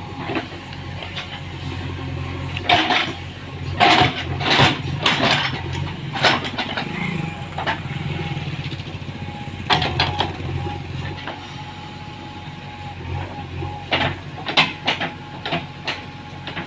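Mahindra tractor's diesel engine running at a steady drone, with bursts of sharp knocks and clatter at intervals.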